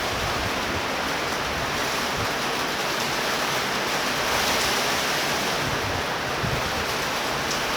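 Torrential rain in a thunder shower, a steady even hiss of the downpour, with a few light gusts of wind buffeting the microphone.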